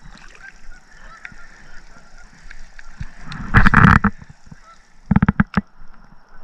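Geese honking repeatedly, short calls over the water. About three and a half seconds in there is a louder noisy burst, and about five seconds in a quick run of sharp clicks.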